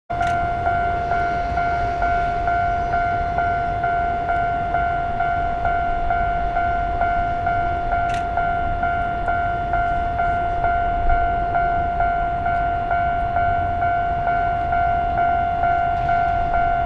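Railway level-crossing alarm ringing at a steady fast rate, about three dings a second, with a low rumble of train traffic beneath it.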